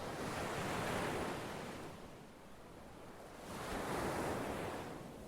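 Ocean surf: two waves wash in one after the other, each swelling up and falling away, about three seconds apart.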